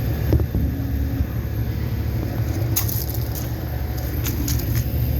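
Outdoor air-conditioner condensing units running with a steady low hum, plus a couple of light clicks about three and four seconds in.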